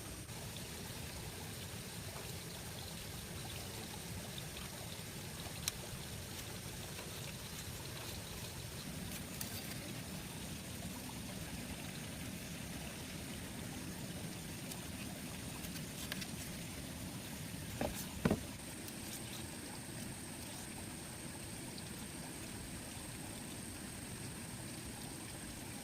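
Water running and trickling steadily, as of a small stream or runoff, with a thin steady high tone over it. A few sharp clicks or knocks break in, the loudest a quick double knock about two-thirds of the way through.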